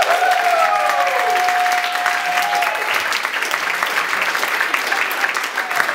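Audience applauding and cheering, with a long held whoop and a falling cheer in the first few seconds.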